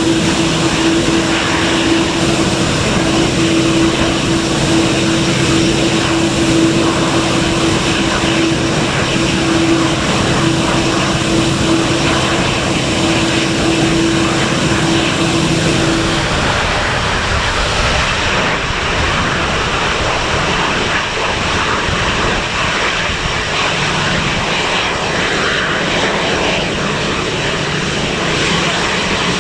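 Departing airplane's engines running loud and steady at high power close by, with a humming tone that stops about sixteen seconds in and a lower hum that comes in later.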